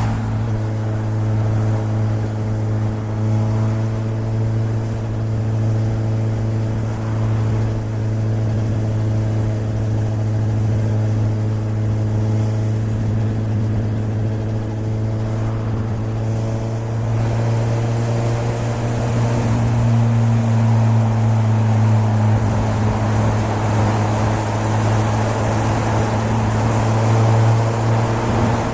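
2013 Suzuki GSR750's inline-four engine running through a Yoshimura aftermarket exhaust at steady revs while riding. Rushing wind noise grows in the second half.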